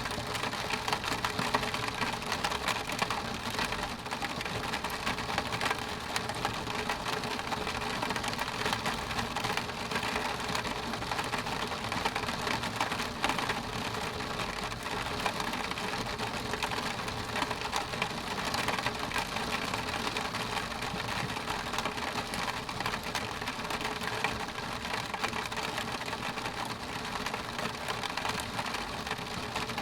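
Steady rain on a window pane: a dense patter of drops ticking on the glass.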